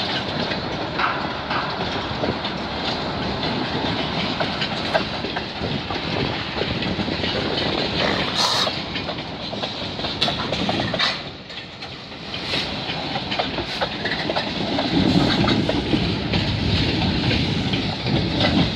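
Freight train of railway tank cars rolling past at close range: a steady rumble of steel wheels on rail with clickety-clack over the rail joints and scattered sharp clanks. It dips briefly about two-thirds of the way through, then grows louder near the end.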